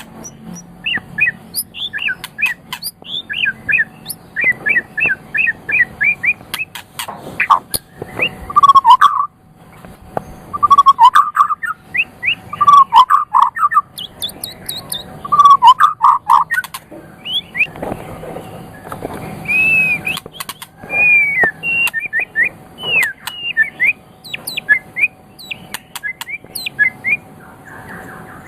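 White-rumped shama (murai batu) singing: a continuous run of varied chirps, trills and whistled phrases mixed with sharp clicks, its loudest, lower-pitched phrases in the middle.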